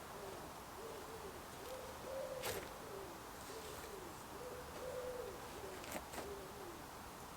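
A bird giving a repeated phrase of low, soft hooting coos, short notes mixed with longer ones. Two sharp clicks come about two and a half seconds and six seconds in.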